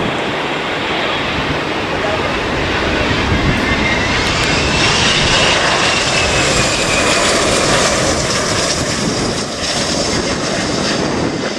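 Jet airliner passing close by. The engine noise swells to a peak mid-way, and a high whine drops in pitch as the aircraft goes past.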